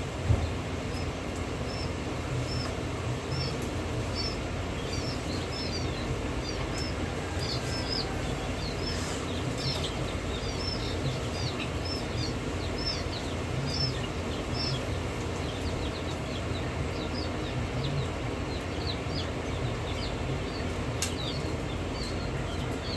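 Small birds chirping: short high chirps, about two a second, keep on throughout over a steady low background rumble. A brief knock sounds just after the start.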